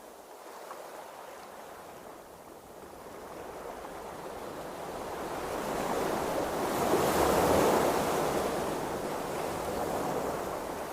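Ocean waves washing, swelling to a loud surge about seven seconds in and then easing off.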